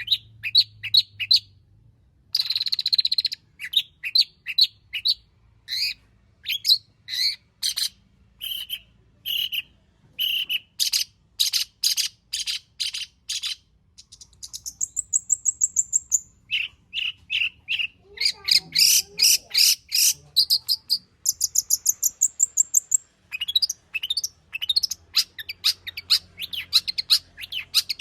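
Long-tailed shrike singing a varied, mimicry-filled song: fast runs of sharp repeated chirps and short trills, broken by a high thin whistled phrase around the middle and another near the end.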